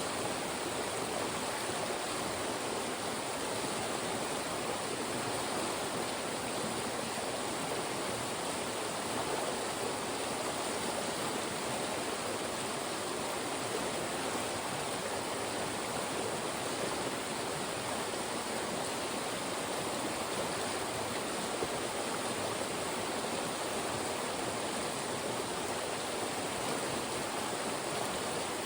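Fast-moving stream rushing through funnels of rocks, a steady, even rush of water.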